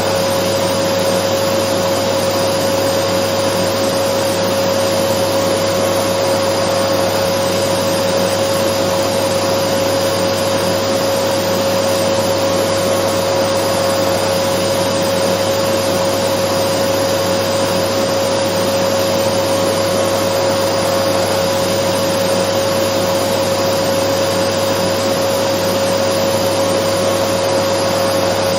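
Dyson vacuum cleaner running steadily: an even rushing hiss with a steady whine, unchanging throughout.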